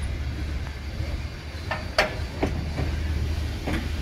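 Railroad cars rolling slowly on the track behind a steam locomotive: a steady low rumble with a sharp metallic clank about two seconds in, the loudest sound, and two fainter clicks after it.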